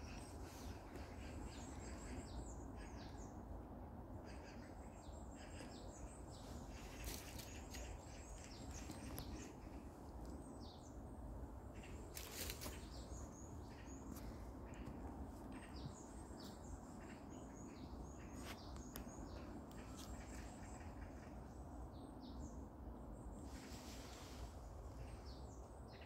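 Small birds chirping, many short calls scattered throughout, over a low steady outdoor rumble.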